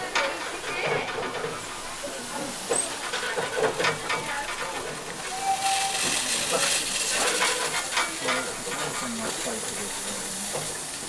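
Narrow-gauge steam locomotive hissing steam, growing stronger about halfway through.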